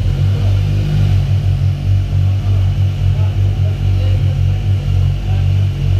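Supercharged Kawasaki H2's inline-four engine idling with a steady low rumble.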